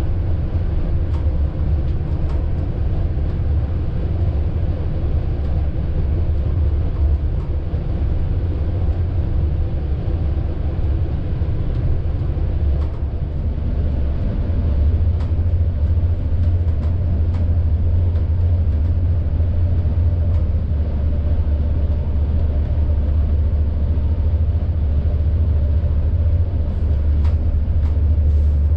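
Passenger train running: a steady, loud low rumble with faint scattered clicks.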